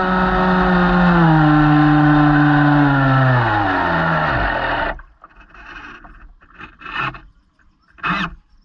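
A model boat's motor running, its pitch sliding steadily lower as it slows, then cutting off abruptly about five seconds in. A few short, fainter knocks and noises follow.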